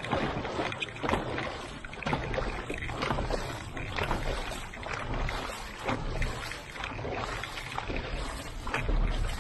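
Dragon boat crew paddling in unison: the paddles catch and splash the water about once a second over the rushing of water along the hull.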